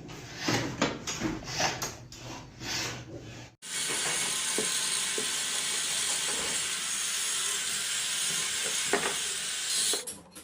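Irregular knocks and scrapes of hand work on metal parts, then an abrupt change to a steady hiss for about six seconds, with a few faint clicks in it.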